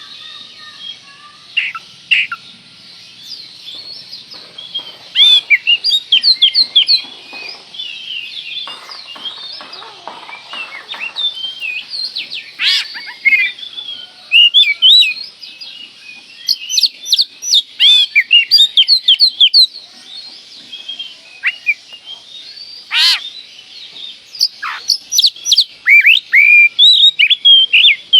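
Oriental magpie-robin (kacer) in full song: loud bursts of rapid, varied chirps and whistled notes, delivered in phrases of a few seconds separated by short pauses.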